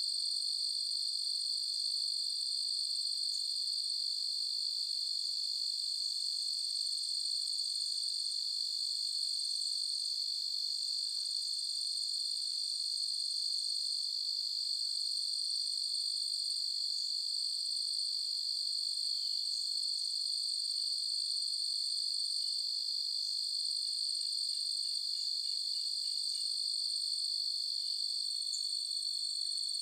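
A chorus of crickets trilling in one steady, unbroken high-pitched drone.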